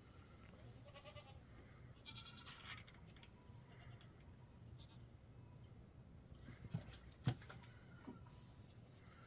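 Faint goats bleating now and then in the distance over quiet surroundings, with two sharp knocks about seven seconds in.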